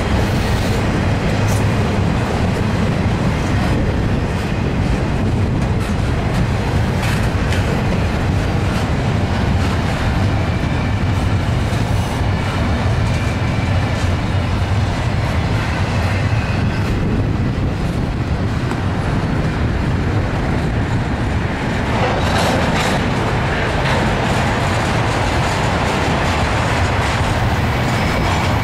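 Double-stack intermodal well cars rolling past on the main line: a steady low rumble with the clatter of steel wheels over the rail. About three quarters of the way through, a louder rushing noise joins in.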